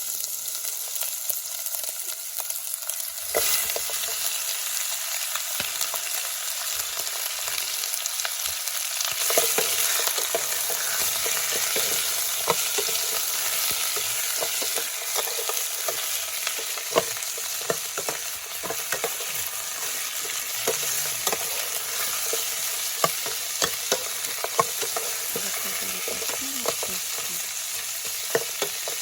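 Food sizzling as it fries in hot oil in a pan, stirred with a spoon that clicks against the pan now and then. The sizzle grows louder about three seconds in.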